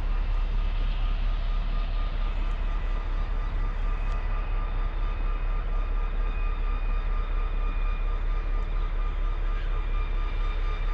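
Train running with a steady low rumble and a steady high whine over it.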